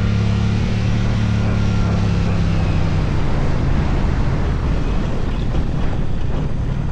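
A motorcycle engine running at a steady speed under heavy wind noise on the microphone. The engine's hum fades into the wind rush about halfway through.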